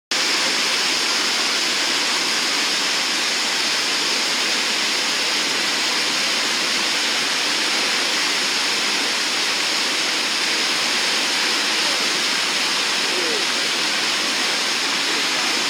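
Whitewater rapids of the Nantahala River, rushing steadily.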